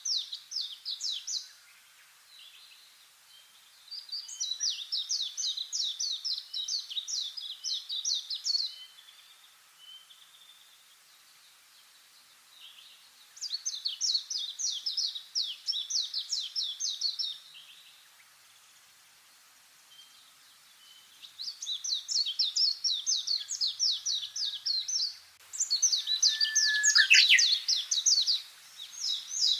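A songbird singing a trill of fast, evenly repeated high notes, given in bouts of about four seconds with pauses of a few seconds between them. Near the end a louder, downward-sweeping bird note overlaps the trill.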